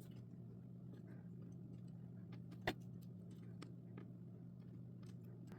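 Faint small clicks and taps of jumper wires being handled and pushed into a solderless breadboard, with one sharper click a little before the middle, over a steady low electrical hum.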